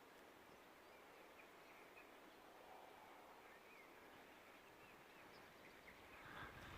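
Near silence: quiet outdoor ambience with a few faint, short bird chirps, and a low rumble that comes up near the end.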